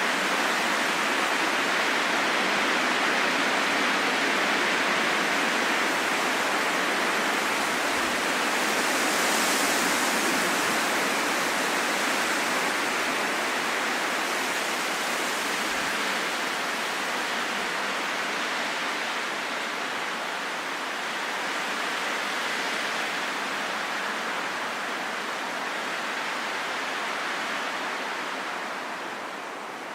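Steady rain falling in a forest, an even hiss that eases a little near the end.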